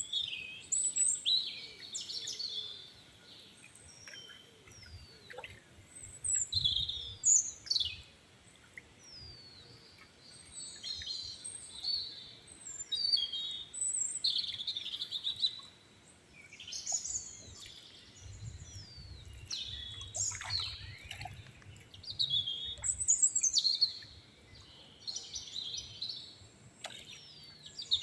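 Birds calling and chirping in repeated bursts, with short high chirps and quick falling whistles, over a faint low rumble.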